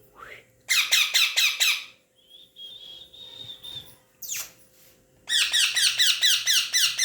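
Pet parrot squawking in rapid harsh runs of about five or six calls a second, twice, with a thin steady whistled note and a single quick falling call in between.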